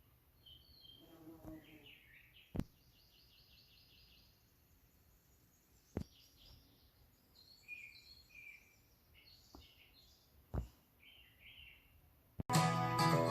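Small birds chirping and singing in short repeated phrases, faint, with a few sharp clicks in between. Acoustic guitar music cuts in suddenly near the end.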